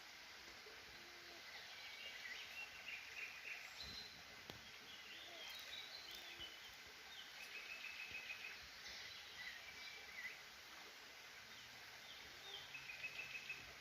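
Faint birdsong: several birds giving short chirps and rapid trills, scattered through, over a steady background hiss.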